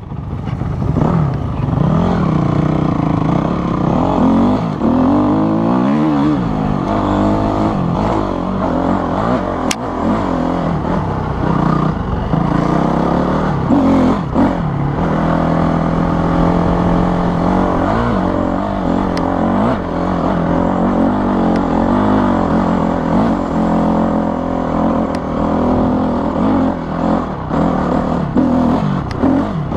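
Dirt bike engine being ridden, its pitch rising and falling over and over as the throttle opens and closes and the gears change, with a few sharp knocks along the way.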